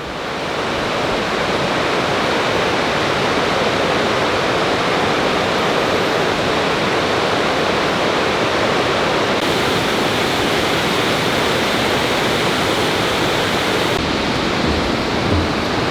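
Waterfall: a steady rush of falling water that swells over the first second and then holds level.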